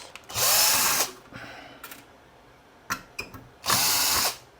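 Small electric screwdriver running in two short bursts about three seconds apart, backing screws out of a circuit board, with a few light clicks of handling in between.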